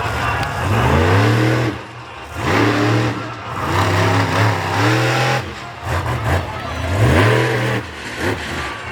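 Monster truck engine revved hard in repeated surges, its pitch climbing and falling back several times.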